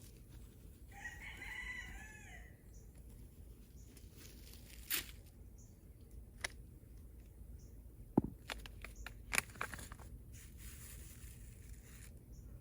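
A rooster crows once, about a second in. Scattered faint clicks and rustles follow, from hands making rows and sowing seeds in a container of soil.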